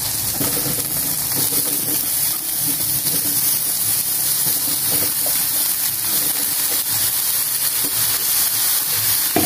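Hot oil sizzling steadily in a wok as chunks of eggplant are tipped in onto the frying onion and garlic.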